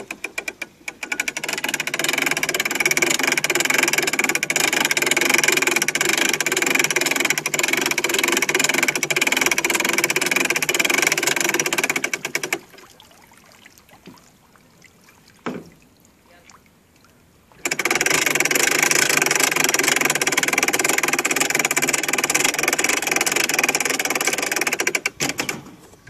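A loud motor runs steadily for about twelve seconds after a few quick clicks at the start, cuts off abruptly, then runs again for about eight seconds before stopping.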